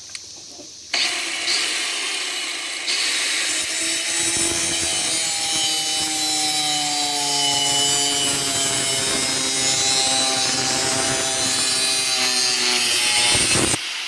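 Loud, dense chorus of periodical cicadas, a steady buzzing drone, cutting in abruptly about a second in and ending abruptly near the end.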